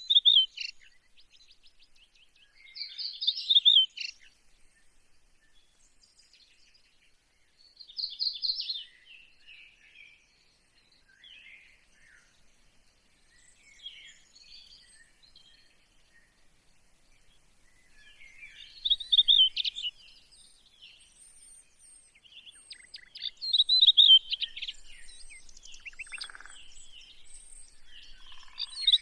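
Birdsong: short, bright, high chirping phrases every few seconds, with fainter chirps in between.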